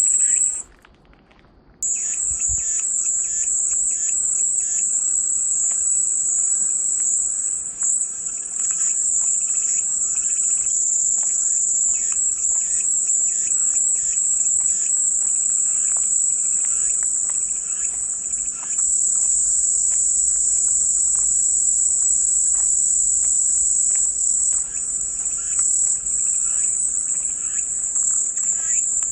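Cicadas buzzing in a continuous high-pitched drone that cuts out for about a second near the start and then resumes, with fainter scattered chirps beneath it.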